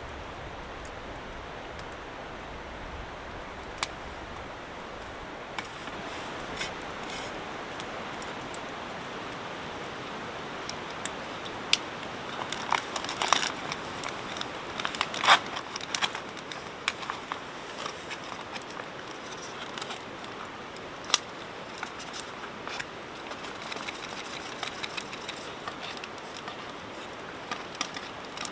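Open wood fire crackling in a firebox: a steady hiss with scattered sharp pops, coming thickest about halfway through.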